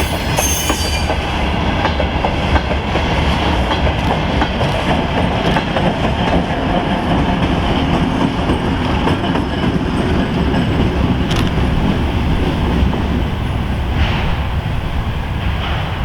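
Freight train rolling past with wheel clatter over rail joints, under the steady low rumble of a TEM2 diesel shunting locomotive working as a pusher at the rear.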